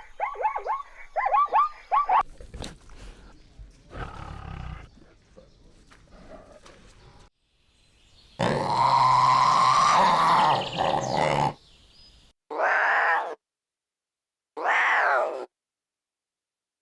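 A series of different animal calls. It starts with a quick run of short, falling chirps, then some quieter calls. A long, loud call runs from about eight to eleven seconds in, followed by two short calls that fall in pitch, then silence.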